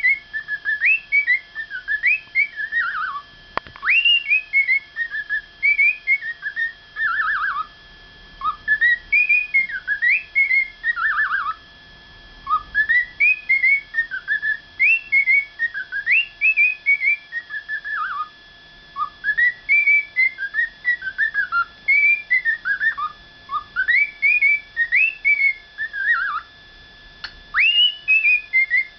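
Cockatiel whistling a learned tune: phrases of quick notes that swoop up and step down, repeated over and over with short breaks between them.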